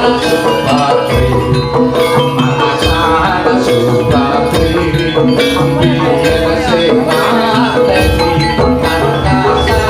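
Loud live jaranan (kuda lumping) music: a Javanese gamelan-style ensemble playing pitched metal percussion over a steady drum beat.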